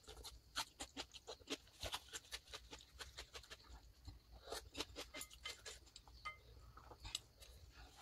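Close-miked eating sounds: noodles being chewed with many small, quick wet mouth clicks.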